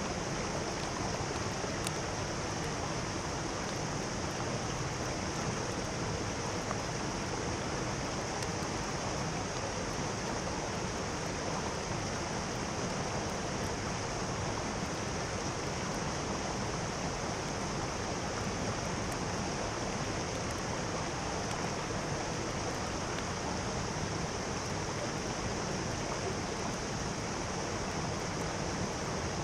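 Mountain stream flowing steadily, a constant rushing of water with a bright hiss in the upper range.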